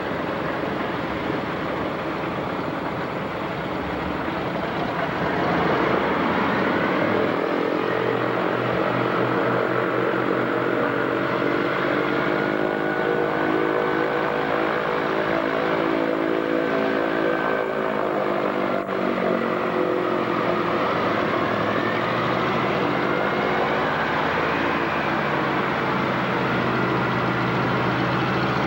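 PBY-5A Canso water bomber's twin radial piston engines running. Their pitch rises about six seconds in, holds, then drops and shifts again near twenty seconds in.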